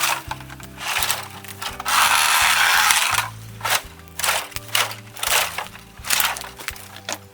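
Dead bamboo and brush being broken up and handled, heard as sharp cracks and snaps with one longer crunching rustle about two seconds in. Background music plays underneath.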